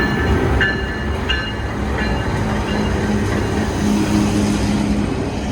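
Intermodal freight train rolling past close by, a loud steady rumble of wheels and cars, with brief high squeaks in the first couple of seconds.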